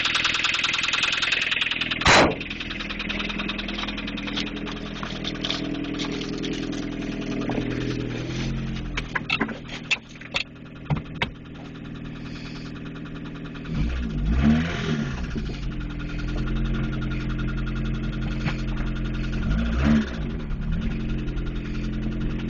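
1993 Toyota Paseo's 1.5-litre four-cylinder engine running, which the seller describes as a bad motor. It has a fast ticking clatter for the first couple of seconds, then a sharp bang about two seconds in and a few clicks. Later the engine revs up and back down twice, once a little past the middle and again near the end.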